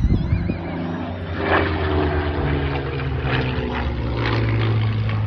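Propeller-driven aircraft flying past, its engine note steady and loud, with the higher tones sliding down slightly in pitch as it passes.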